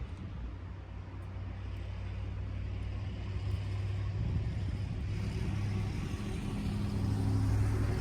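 A motor vehicle engine's low, steady hum, slowly growing louder.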